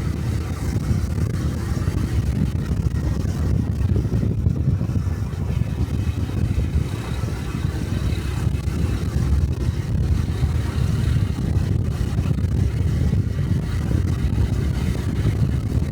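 Honda 125 cc Cub motorcycle's single-cylinder four-stroke engine running steadily while riding along, with road noise.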